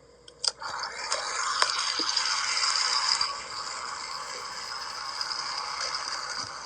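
Toy train engines racing along a track, a steady rattle that starts about half a second in after a few clicks and drops to a quieter, steadier rattle a little past halfway.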